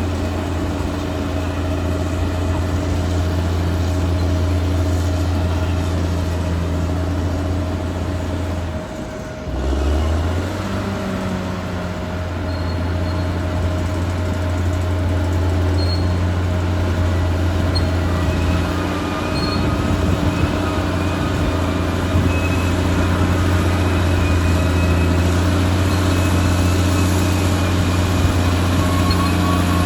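Caterpillar D6R XL bulldozer's diesel engine running steadily under working load. About nine seconds in it briefly drops in level and pitch, then picks back up.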